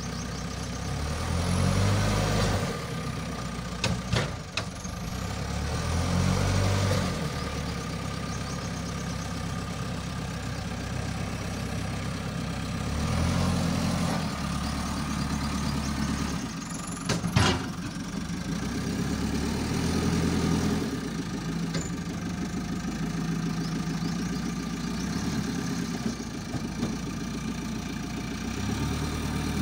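A JCB 3CX backhoe loader's diesel engine running, rising and falling as it is revved in several swells. A few sharp knocks, two close together and a louder one later, like the bucket or arms striking.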